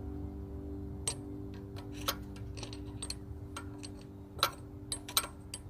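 Irregular light clicks and taps as the turbocharger's compressor wheel on a Toyota 7M-GTE engine is turned and handled by hand. The wheel spins freely, a sign that the turbo is not seized. A steady low hum runs underneath.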